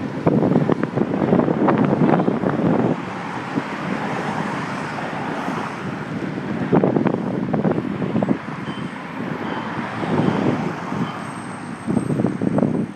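Rough, uneven noise from a handlebar-mounted phone on a moving bicycle: rumble and wind on the microphone with sharp knocks from road bumps, over city traffic. It surges louder several times.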